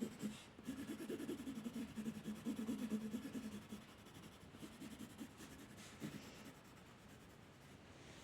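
A drawing tool rubbing on paper in quick, repeated colouring strokes, dense for the first few seconds, then sparser and fading to faint by the end.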